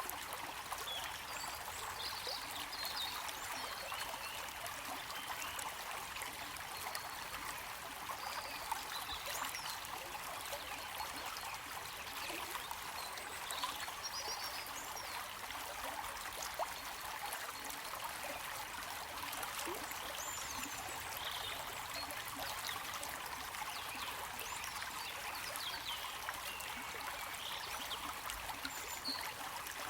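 A stream of flowing water running steadily, an even rushing trickle, with scattered short high chirps over it.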